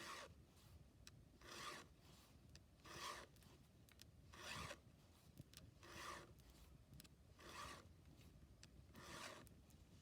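Faint, evenly paced strokes of a file sharpening a chainsaw chain by hand: seven rasping strokes, about one every second and a half.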